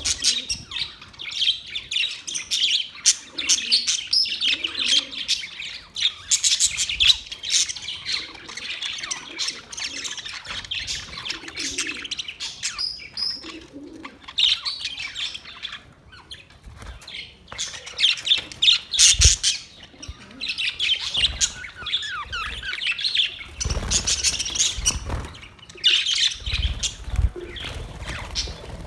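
A colony of parrots chirping and squawking over one another, with dense, overlapping high calls throughout. A few low thumps come in the second half.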